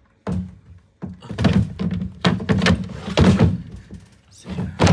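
A series of loud knocks and thumps from handling a condenser tumble dryer's plastic parts, five or so, spread through the few seconds.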